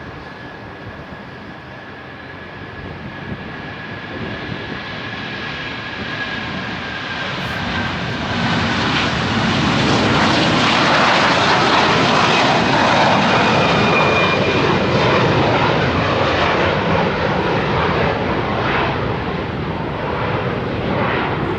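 Airliner passing close by: its engine noise builds up over several seconds, peaks about halfway through, then slowly fades. A high whine slides down in pitch during the first few seconds.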